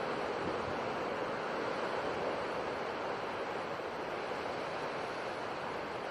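Sea surf making a steady, unbroken rushing wash, with no separate wave surges standing out.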